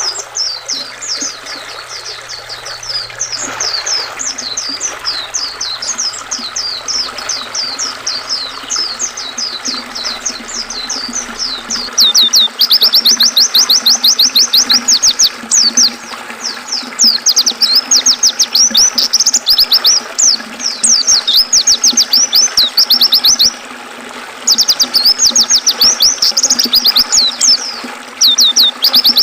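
White-eyes (pleci) singing over the steady rush of a river: quick runs of high, falling chirps that become a loud, rapid, unbroken trill about halfway through, breaking off for about a second near two-thirds through.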